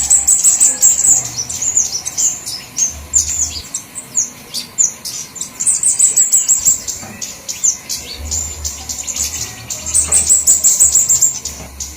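Flowerpeckers calling over one another in a dense flurry of thin, high-pitched chirps, thinning out for a few seconds in the middle: a bird-lure recording used to attract small wild birds.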